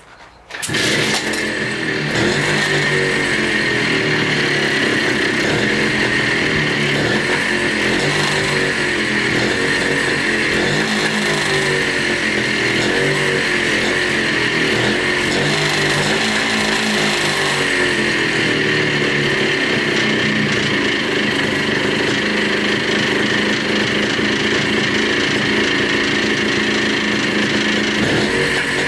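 Montesa Cota 247's single-cylinder two-stroke engine comes in suddenly about half a second in and keeps running, its speed wavering gently up and down. It is running again after 42 years laid up.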